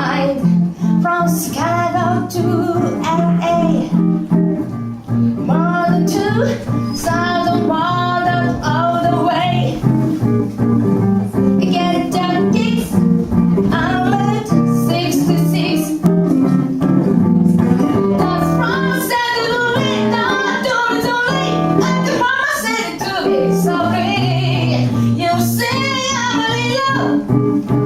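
A woman singing a song with guitar accompaniment, her sung notes wavering with vibrato over steadily strummed chords.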